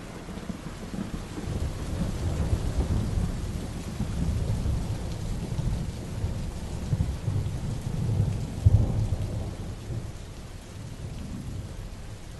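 Heavy rain falling steadily, with a long low rumble of thunder that builds, peaks about three quarters of the way through, and then dies away.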